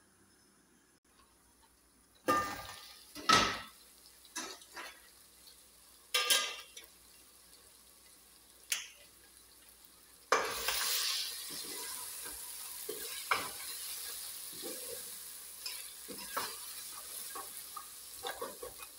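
A stainless-steel cooking pot and its lid clank in several sharp knocks. About halfway in, onions and other ingredients start sizzling steadily as they fry in the pot, with a wooden spoon stirring and scraping through them.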